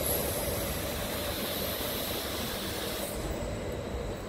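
Stadler FLIRT electric multiple unit pulling away, its steady running noise fading as it recedes. A high hiss stops about three seconds in.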